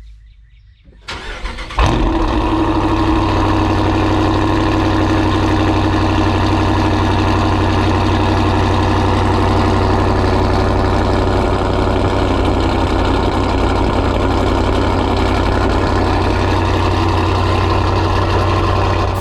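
Cold start of a cammed 5.7-litre Hemi V8: the starter cranks briefly about a second in, the engine catches and settles into a loud, steady idle.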